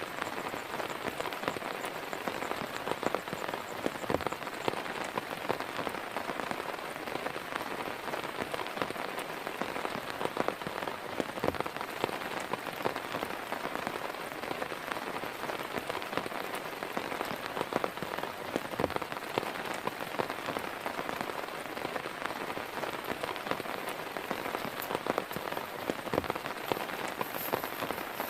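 Heavy rain falling steadily, with many close, sharp drop hits over an even wash of rain. A few heavier, deeper hits stand out about every seven seconds.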